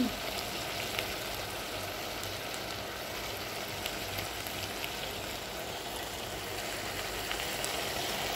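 Chicken and mushroom stir-fry sizzling steadily in a steel pot, with scattered small pops, as the soy sauce and hot sauce cook down into it.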